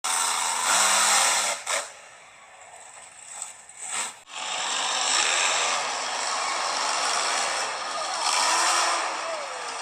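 Monster truck engine running hard at high revs, a loud raspy mechanical noise that drops away for about two seconds near the start and then comes back loud.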